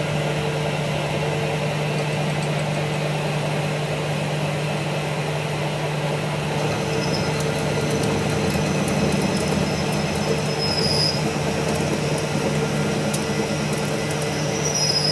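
A shop machine running steadily with a constant hum over a dense grinding, metal-working noise, with brief high squeals about eleven seconds in and again near the end.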